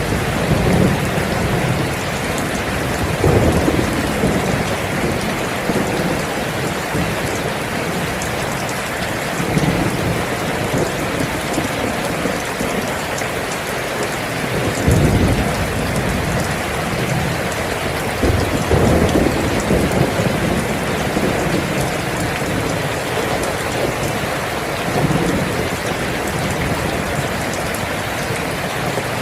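Steady heavy rain pouring, with low rumbles of thunder swelling up several times.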